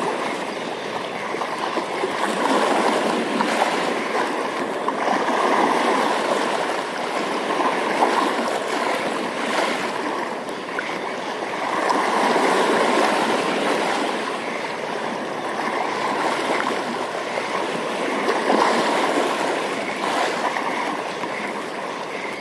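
Running water rushing steadily, swelling and easing every few seconds.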